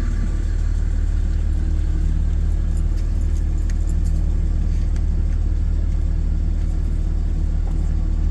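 Truck engine running steadily at low speed with a constant low drone, and a few faint light clicks a few seconds in.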